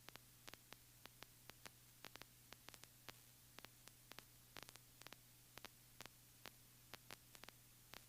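Near silence: a faint steady low hum with scattered faint static clicks, a few a second at irregular spacing.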